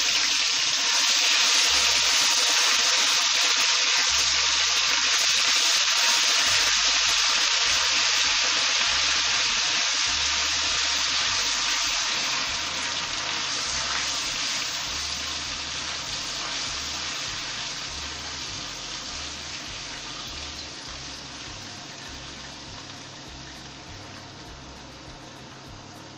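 Ginger garlic paste and chopped green chillies sizzling in very hot oil in a thin wok as they are stirred with a silicone spatula. The hiss holds loud and even for about twelve seconds, then dies down gradually.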